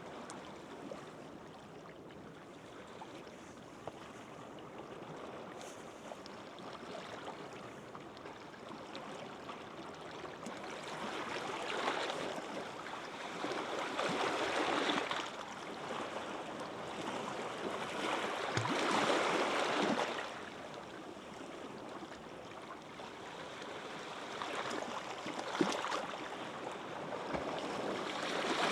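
Gentle sea waves washing onto a beach, the surf swelling and fading every few seconds, with louder washes about halfway through and again near the end.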